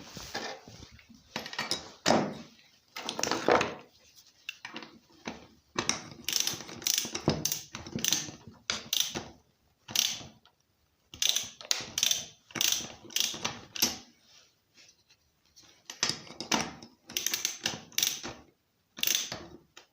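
Spark plug being tightened into a chainsaw's cylinder head with a ratchet: runs of quick ratcheting clicks, stopping and starting again.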